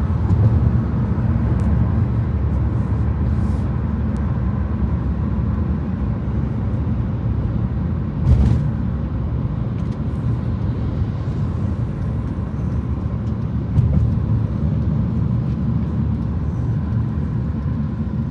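Steady rumble of a car being driven, engine and tyre noise, with a brief louder swell about eight seconds in.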